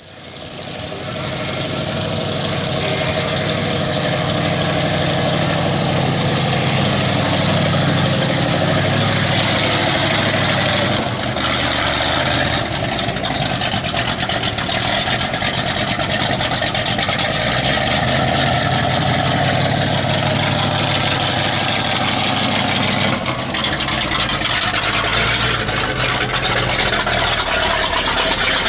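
Hot stock pulling truck's engine running at high revs under heavy load through a pull, its pitch wavering, with brief dips about eleven and twenty-three seconds in.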